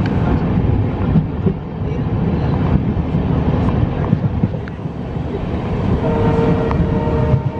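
Passenger train running along the track: a steady rumble of wheels on rails with scattered clicks. A brief steady tone sounds for about a second near the end.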